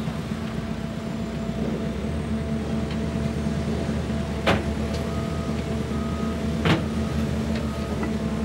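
Log loader's diesel engine running steadily as it carries a load of logs, with two sharp knocks, about four and a half and nearly seven seconds in, and short high beeps repeating from about five seconds in.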